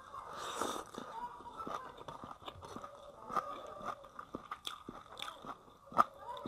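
Close-up mouth sounds of a person chewing a mouthful of rice and silver carp, with many small wet clicks and a sharp, louder click about six seconds in.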